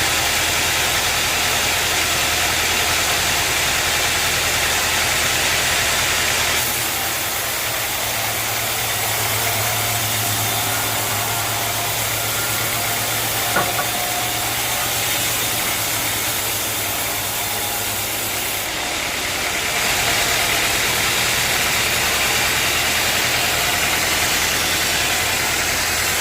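A sawmill's engine running steadily, its sound shifting slightly about a quarter of the way in and again about three quarters through, with a single short click near the middle.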